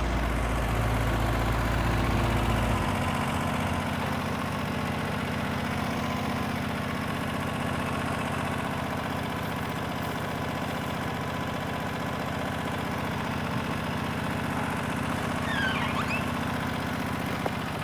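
Portable sawmill's gasoline engine running steadily between cuts. A deeper hum underneath drops out about three seconds in.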